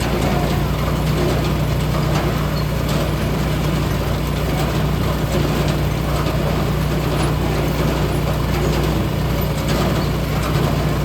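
Engine of a log splitter running steadily at an even speed, with scattered light clicks and knocks over it.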